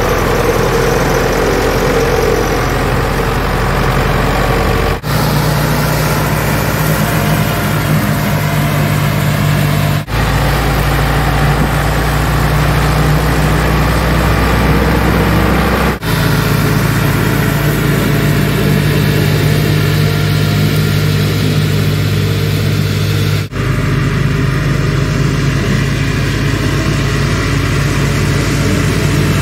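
Ursus tractor diesel engines running steadily, heard in a string of short clips: the engine note changes abruptly about 5, 10, 16 and 23 seconds in, where one clip gives way to the next.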